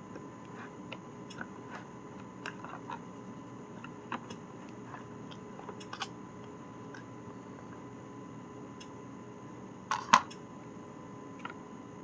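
Someone eating a meal: scattered small clicks and taps, with a louder double clack about ten seconds in, over a steady low hum.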